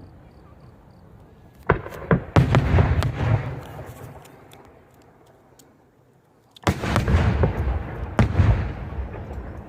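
Aerial fireworks shells bursting: a few sharp bangs about two seconds in, with a rumbling, crackling decay, then a lull. A second volley of loud bangs comes near the end and dies away the same way.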